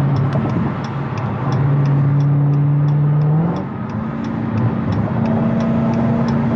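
Car engine droning at steady speed, then rising in pitch about halfway through as it accelerates, under road noise, with a light regular ticking.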